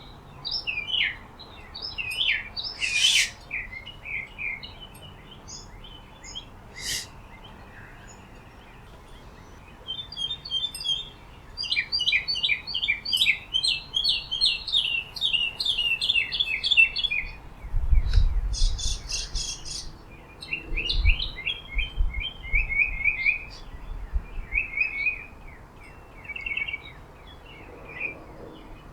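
Small songbirds chirping and twittering, with a fast run of repeated chirps in the middle. A few short low rumbles come just after the middle.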